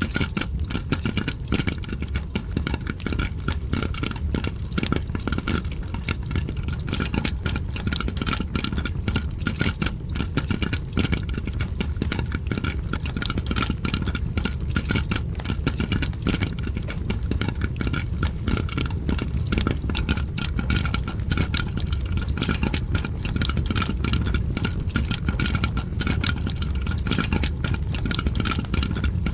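Popcorn popping in a pot, layered with a crackling fireplace: dense rapid pops and crackles over a steady low rumble.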